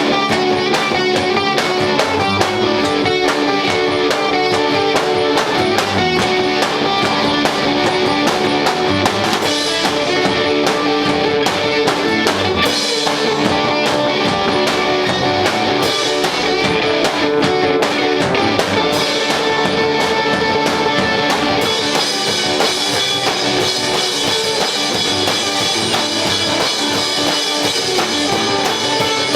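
Live rock band playing instrumentals: electric guitars with bass and drum kit, the cymbals brighter from about two-thirds of the way in.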